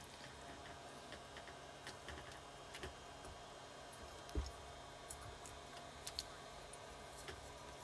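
Faint, scattered small clicks and taps of metal engine parts being handled as piston rings are squeezed together by hand to ease the cylinder down over the piston, with one louder knock about four and a half seconds in.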